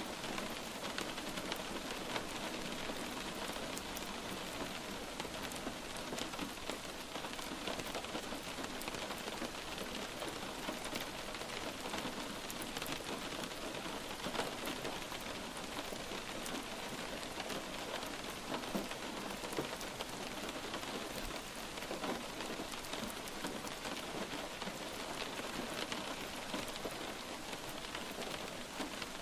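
Steady light rain falling, a dense even patter of many small drops striking a surface.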